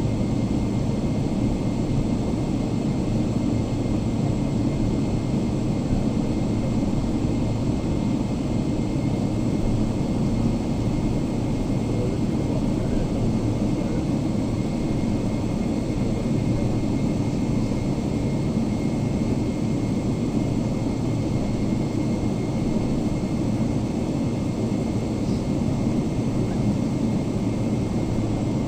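Steady cabin noise inside a Boeing 777-300ER: an even, unchanging rumble of engine and airflow noise with a faint steady hum.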